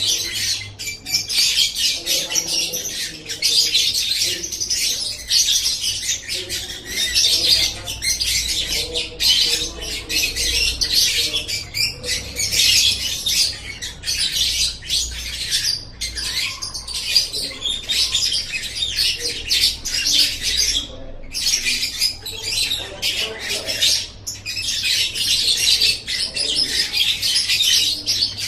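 Lovebird chattering in long, rapid, high-pitched trills with only a few short breaks, over a faint low hum.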